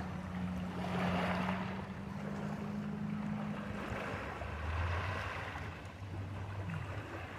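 Wind blowing in gusts across the microphone by a lake, over water lapping at the shore, with a steady low hum underneath.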